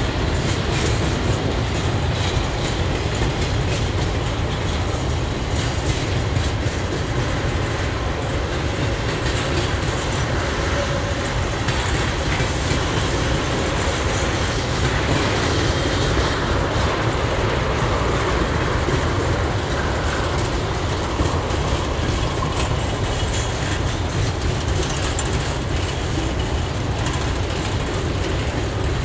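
Freight train's boxcars and tank cars rolling past at close range: a steady rumble with the clickety-clack of steel wheels on the rails.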